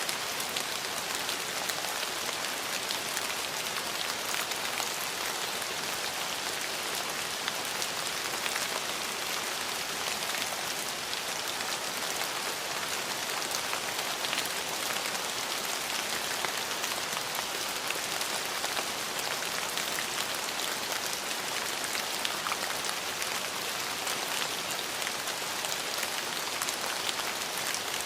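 Steady rain falling, an even hiss with fine patter of drops hitting surfaces.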